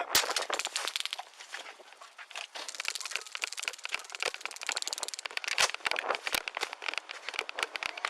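Dense crackling and rustling: clothing and gear rubbing against a body-worn microphone during a scuffle, with a sharp click just after the start.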